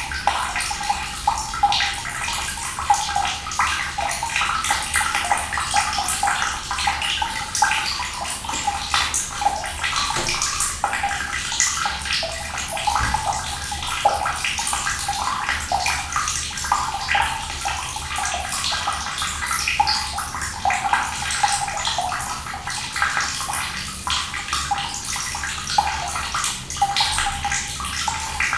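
Running water pouring and splashing steadily, with a dense patter of small splashes.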